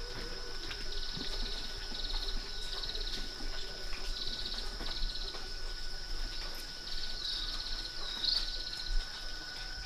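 Insects trilling in short pulsed bursts over a steady high-pitched drone, with a couple of brief bird chirps near the end.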